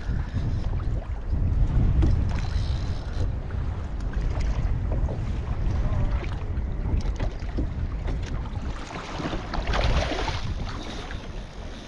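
Wind buffeting the microphone on a kayak at sea, a steady low rumble with water noise, and a louder hissing rush about ten seconds in.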